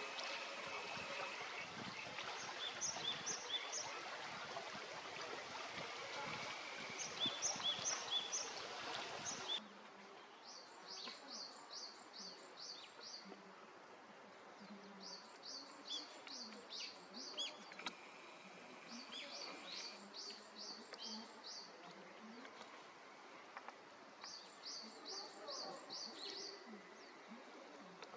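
A small songbird singing: short, high notes repeated in quick runs of several, phrase after phrase, over steady outdoor background noise that drops sharply about ten seconds in.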